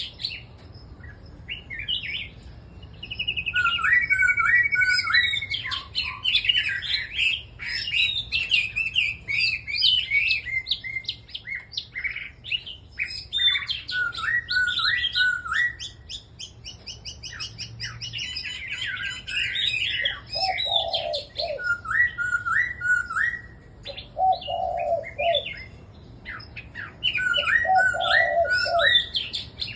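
Several caged red-whiskered bulbuls singing together in overlapping short, gliding phrases. In the second half a lower call repeats every three to four seconds.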